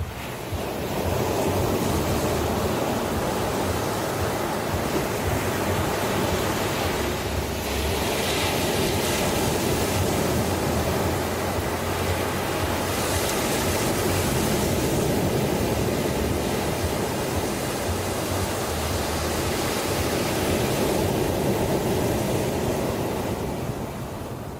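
Ocean surf: a steady rushing wash of breaking waves that swells up about a second in, with hissier surges partway through, and eases off near the end.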